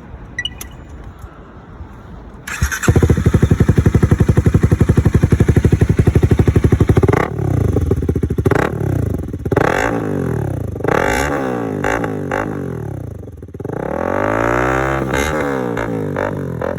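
Honda Rebel 250's single-cylinder engine through an aftermarket Diablo muffler, starting up about two and a half seconds in and idling with a rapid, even pulse. It is then revved in a series of short throttle blips, with one longer rev near the end.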